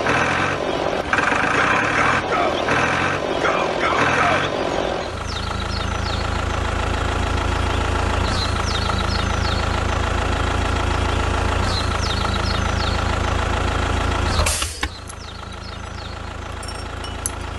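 Mini tractor's engine running steadily with an even hum, after a busier mix of sounds in the first few seconds. A brief loud crackle comes about fifteen seconds in, and the engine carries on a little quieter after it.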